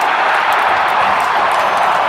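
Hockey arena crowd cheering loudly and steadily, the roar having swelled up just before.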